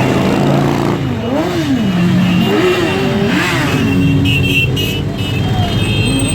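Several motorcycle engines revving up and down, their pitches rising and falling and overlapping, over a steady background of running engines.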